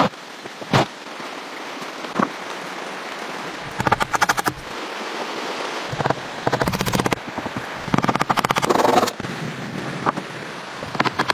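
Bursts of rapid, evenly repeated clattering strokes, each lasting about a second, with a few single sharp knocks in between, over a steady hiss.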